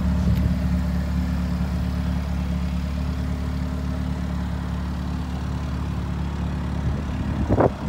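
A 2015 Subaru WRX sedan's turbocharged flat-four engine running steadily at low revs as the car pulls away slowly, with a short louder sound near the end.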